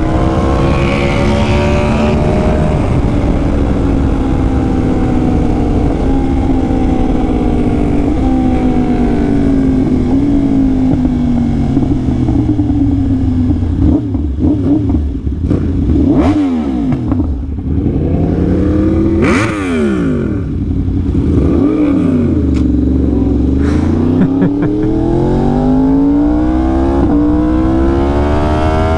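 2020 Yamaha R1's crossplane inline-four sport-bike engine, heard from the rider's position under way. Its pitch sinks slowly for about ten seconds, then falls and climbs several times with throttle and gear changes, rising again near the end.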